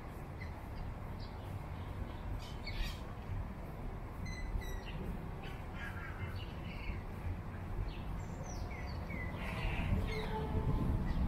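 Small birds chirping, short calls coming every second or so, over a steady low rumble.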